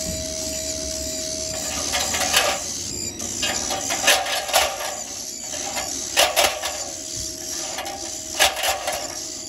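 Chimney swift nestlings giving harsh, raspy calls in repeated bursts, starting about two seconds in.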